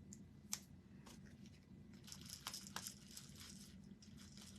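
Quiet crinkling and rustling, with a few light clicks and taps, as small crafting materials are handled on a work table.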